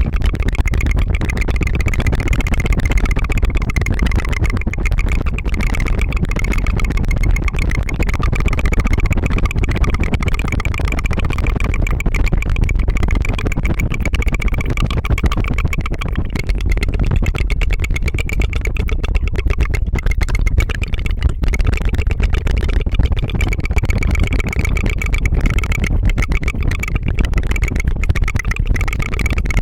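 Continuous rapid tongue fluttering (a rolled-tongue trill) close to the microphone: an unbroken buzzing rattle that sounds like a small engine idling.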